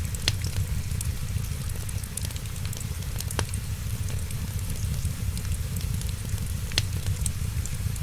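Fireplace fire crackling: a steady low rumble with many small high ticks and three loud sharp pops spread through it.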